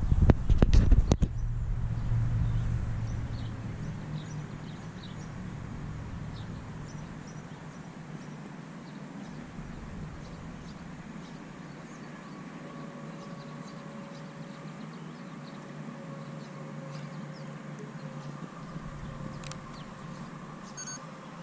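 A low rumble fades over the first few seconds. Then a distant mechanical outdoor warning siren comes in faintly, a slow, steady tone that creeps up in pitch as it struggles to get going. Small bird chirps are scattered throughout.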